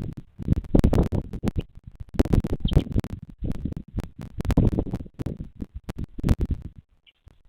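Irregular scratching and crackling with low rumbling thumps close to the microphone, coming in clusters with short pauses and dying away near the end.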